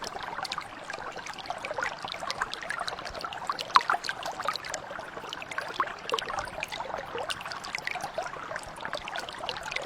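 Small mountain brook flowing and babbling steadily, a dense patter of little bubbling and trickling plops over the water's rush.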